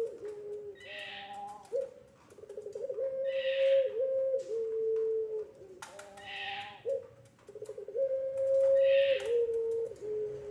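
Puter pelung dove cooing: long, drawn-out held notes, each phrase stepping down in pitch to a lower note, repeated over and over. A short hissing sound recurs every two to three seconds.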